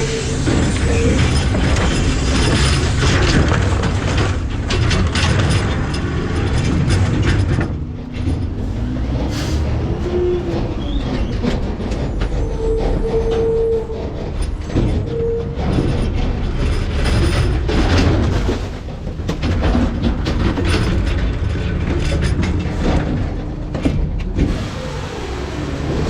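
McNeilus ZR rear-loader garbage truck compacting trash in its hopper: a heavy low running rumble, with the packer hydraulics whining in short steady tones and one rising-and-falling whine about ten seconds in, over constant crackling and crunching as the trash is crushed.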